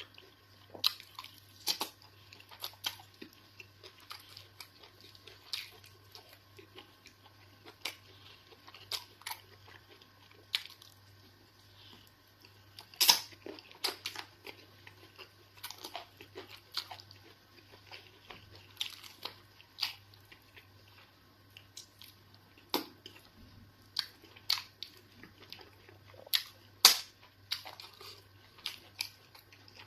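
Close-miked chewing: a person eating with irregular wet mouth clicks and smacks, one to three a second, with a couple of sharper, louder ones about halfway through and near the end.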